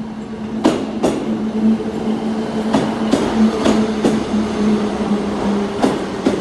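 Class 158 diesel multiple unit pulling into the platform, its underfloor diesel engines giving a steady hum while its wheels clack over rail joints in quick pairs several times.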